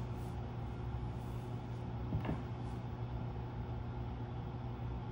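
A steady low electrical hum under a hiss of static, with one faint tick about two seconds in.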